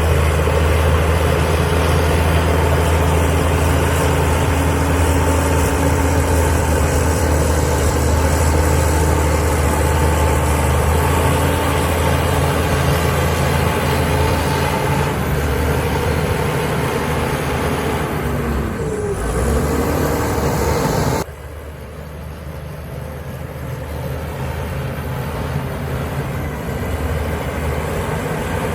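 Heavy diesel engine of earthmoving machinery running steadily under load with a deep hum. The engine note shifts briefly, the sound drops off suddenly about three-quarters of the way through, then builds back up.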